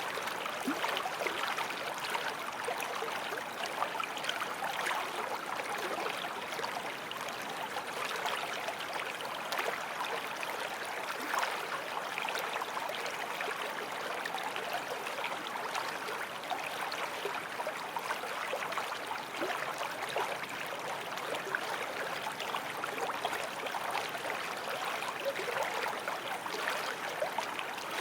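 Forest stream flowing over rocks: a steady rush of water with fine gurgling and trickling.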